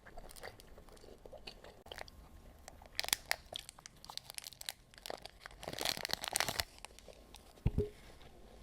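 Close-miked chewing and crunching of food, with a cluster of crunches about three seconds in and a denser run about six seconds in. A short low thump follows near the end.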